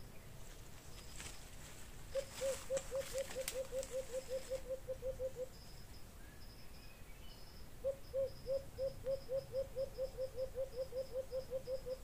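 A low-pitched bird call: a rapid run of short, hooting notes, about six a second, given twice, the second run starting about eight seconds in. A faint high chipping goes on behind it, with a short rustle near the start.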